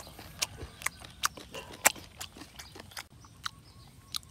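Close-up mouth sounds of a person eating shrimp and papaya salad: wet chewing and lip-smacking, heard as a string of sharp, irregular clicks about two to three times a second.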